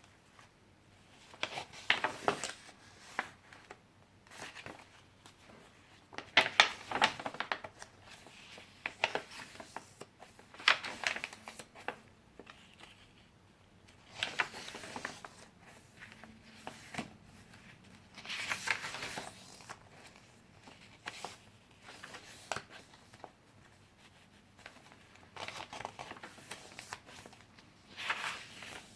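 Paper pages of a handmade junk journal being turned, rustling and crinkling in short bursts every few seconds.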